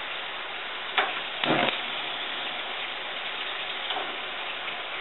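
Sweet potato slices sizzling steadily in a frying pan on a lit gas burner. A sharp click about a second in and a short knock just after it break the sizzle.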